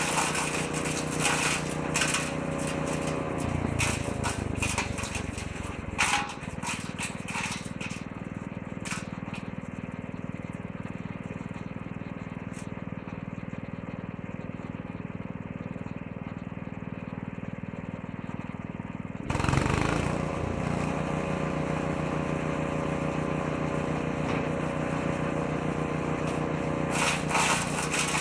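The 6.5 horsepower petrol engine of a woodchipper-shredder running as branches are fed in, with sharp cracking and rattling from the wood being chewed and chips thrown out. A few seconds in, the engine speed drops and holds lower, then picks back up suddenly about two-thirds of the way through. The cracking returns near the end.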